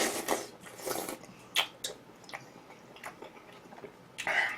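A person chewing and biting food close to the microphone: irregular short bursts of mouth noise with several sharp clicks.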